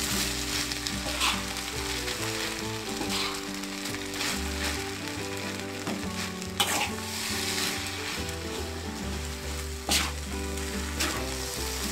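Fried rice sizzling in a hot wok while a spatula stirs and turns it, the spatula clicking against the wok a few times.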